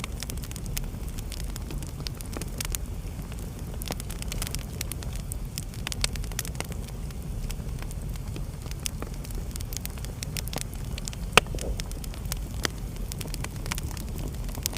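Wood fire burning in a fireplace: a steady low rumble of flame with frequent sharp crackles, and one loud pop near the end.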